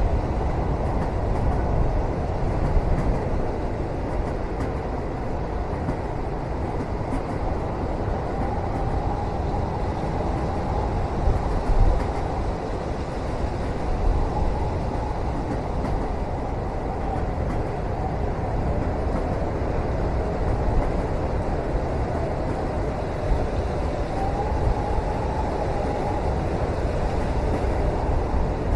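Steady rumble of a moving train heard from inside a passenger cabin, deep and continuous, with a faint wavering higher tone drifting in and out.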